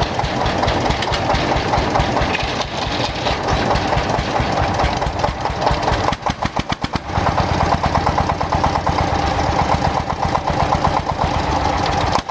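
Restored old tractor engine running with a rapid, steady firing beat. About six seconds in the speed dips briefly and single firing pulses can be picked out, then it picks up and runs steadily again with a heavier low note.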